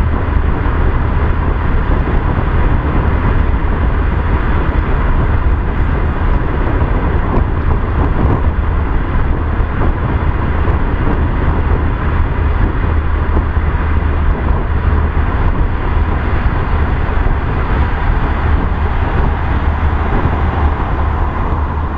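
Steady road and engine noise of a car driving, with a strong low rumble that holds even throughout.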